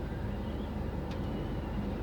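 Steady low vehicle engine hum, with one short click about a second in.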